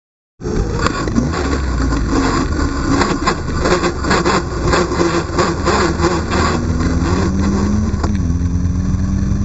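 A 1000 cc superbike engine running, coming in after a brief gap. It holds fairly low, wavering revs, then settles into a steadier, slightly lower note over the last few seconds with a couple of small throttle blips.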